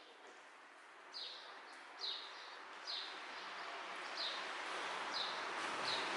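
A bird repeating a short falling chirp about once a second. Under it is a steady hiss of rain that grows louder about halfway through.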